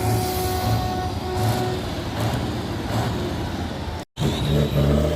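Tatra truck-trial truck engine running, with a high, steady squeal over it for the first two seconds. The sound drops out briefly about four seconds in and comes back with the engine louder.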